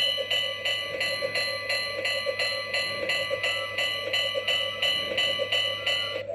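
Recorded steam locomotive bell clanging steadily about three times a second, played through a steam train clock's small speaker as part of its 5 o'clock hourly sound.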